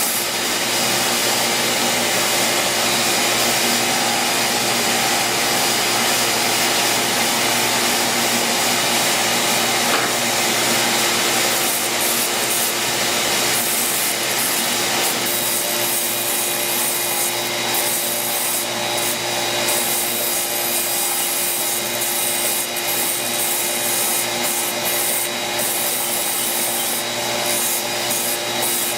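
Belt sander running steadily, its belt sanding a large wooden dowel held on a pin jig against it, grinding the glued-up wood down to round; a continuous rasp over a steady motor tone.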